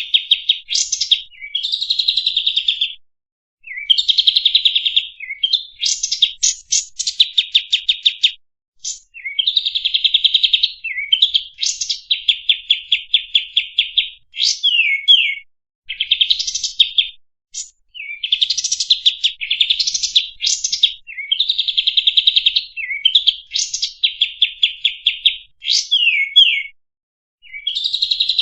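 Kapas tembak songbird singing in repeated phrases of rapid, high-pitched chattering trills, each lasting a second or two and broken by short pauses, as used in a masteran tutor recording for training caged birds.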